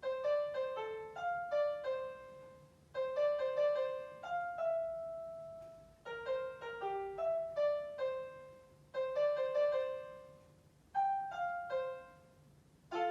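Piano playing a simple melody in short phrases of single notes, with a brief gap between phrases about every three seconds and a new chord struck at the very end.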